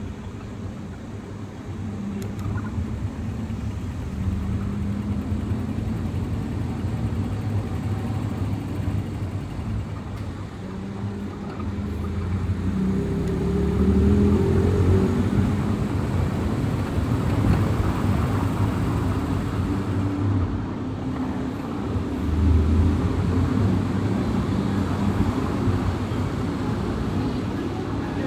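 Car driving, with a steady rumble of engine and tyres. The engine note rises and the sound grows louder about halfway through as the car speeds up.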